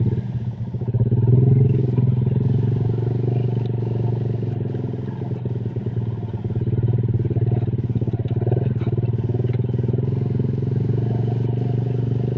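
Honda Vario scooter's KZR engine, tuned up with a 55 mm piston, running steadily under way. It eases off briefly about half a second in, then picks up again.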